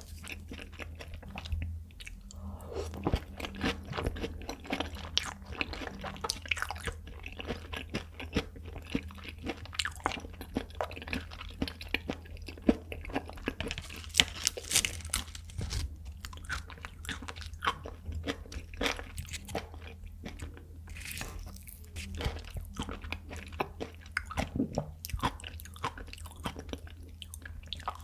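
Close-miked chewing of raw tuna sashimi: wet, sticky mouth sounds with irregular crunchy, crackling bites, a few louder crunches in the middle.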